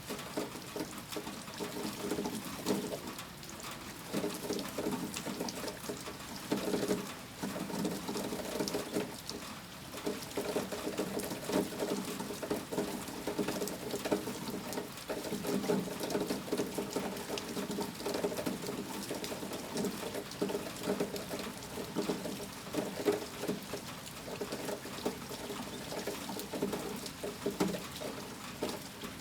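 Rain falling steadily in a dense, irregular patter of drops that swells and eases.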